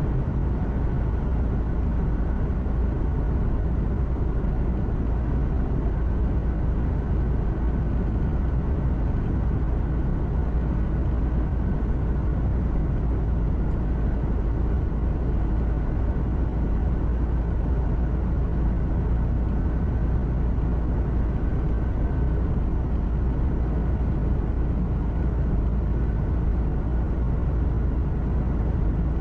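Truck cab interior noise while driving: a steady low rumble of engine and road noise that does not change, with a faint steady high tone above it.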